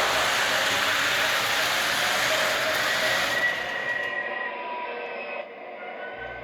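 MTH Rail King SD70ACe O-gauge model diesel locomotive running with its train, Proto-Sound 3.0 diesel sounds mixed with a steady rushing of wheels and motor on the track. The rushing fades about four seconds in, leaving fainter running sounds.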